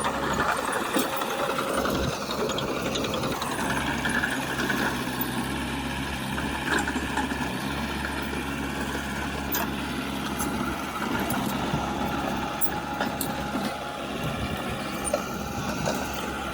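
Diesel engine of heavy earthmoving machinery running steadily, with scattered short clicks and clanks.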